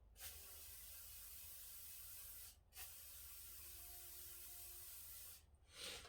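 Near silence: a faint steady hiss that drops out abruptly three times, with a soft knock near the end.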